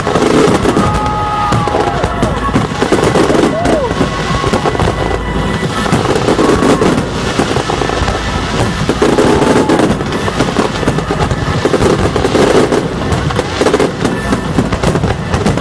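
Large fireworks display: a dense, unbroken run of bangs and crackling from aerial shells and sparking ground fountains going off together.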